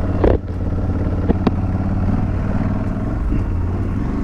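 Aprilia Tuareg 660's parallel-twin engine running steadily while riding, with a few sharp ticks in the first second and a half.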